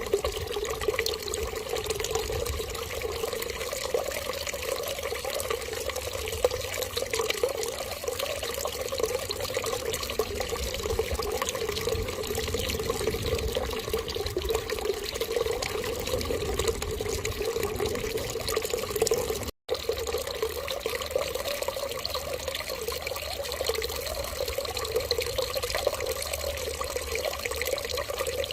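Steady running water, like a tap left running, with an even, unbroken flow. It cuts out completely for a split second about two-thirds of the way through, then carries on unchanged.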